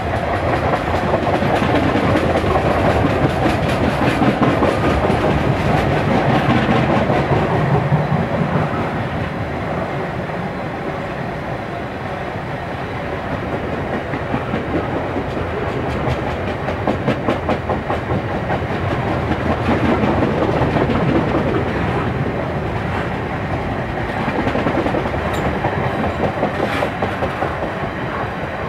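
Long freight train of covered wagons rolling past at speed: steady rumble with wheels clattering over the rail joints.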